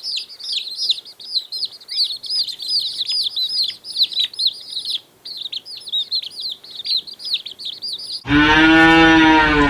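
Many small birds chirping and twittering rapidly, then about eight seconds in a cow gives one long, loud moo that falls in pitch at the end.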